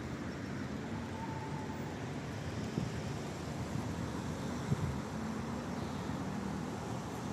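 Steady outdoor rain noise, heavy in the low end, with two brief soft knocks about three and five seconds in.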